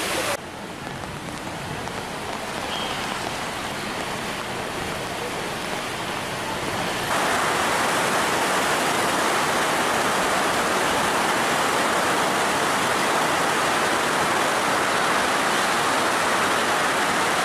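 Heavy downpour of rain, a steady hiss of falling water. About seven seconds in it grows louder.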